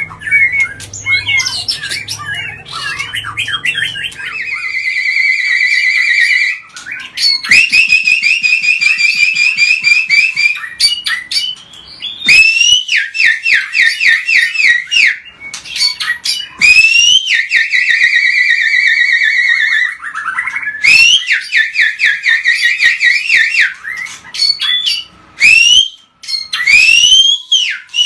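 White-rumped shama (murai batu) singing loudly in long unbroken phrases: fast rattling trills of repeated notes, alternating with sharp rising whistled notes, with brief gaps between phrases.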